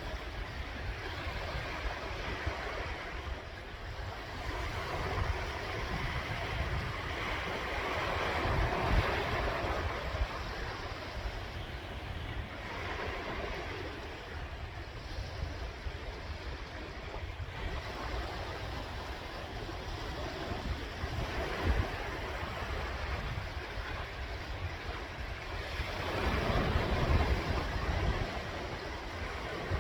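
Sea waves washing onto the shore, swelling louder about a third of the way in and again near the end, with wind rumbling on the microphone.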